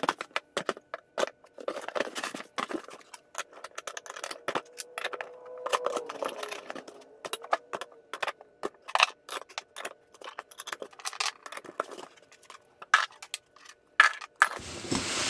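Steel connecting rods, rod caps and nuts from stock small-block Chevy piston assemblies clinking and clanking as they are picked up off a wooden bench and set into a cardboard box, with many sharp metal clinks throughout. A brief rustle comes near the end.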